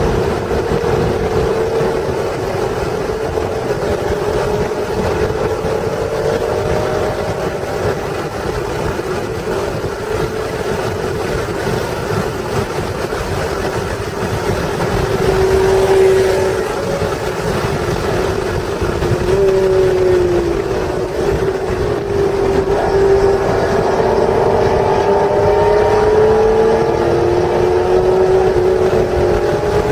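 1996 Acura NSX's stock 3.0-litre V6 pulling hard around a race track, its engine note rising and falling as the car accelerates and lifts through the corners, over steady road and wind noise.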